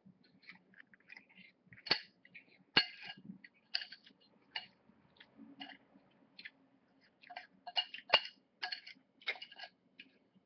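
Cutlery clinking and scraping against a plate during a meal of rice, beans and meatballs, with chewing. The clinks are short and irregular, and the sharpest come about two, three and eight seconds in.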